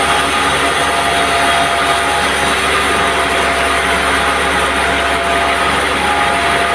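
Band sawmill running with a steady, loud mechanical drone and a few constant tones.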